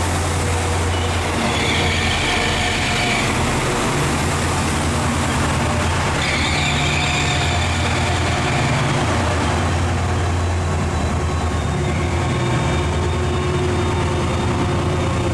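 Train in a station with a steady low engine hum. Two brief higher-pitched squeals come over it, about a second and a half in and again about six seconds in.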